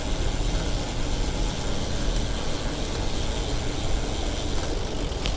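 Steady city traffic noise: motor vehicles running and passing, an even rumble with no distinct events.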